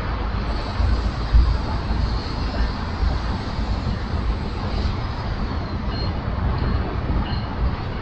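Freight train rolling slowly past on the tracks below: a steady rumbling noise with uneven low thumps, muddied by a rain-affected microphone. A few faint, short high squeaks come near the end.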